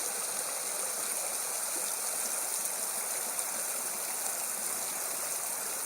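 A small moorland burn rushing steadily over a series of little rapids and low waterfalls.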